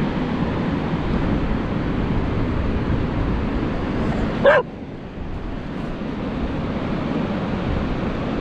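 A dog gives one short, sharp bark about four and a half seconds in, over a steady rushing background noise that drops away just after the bark.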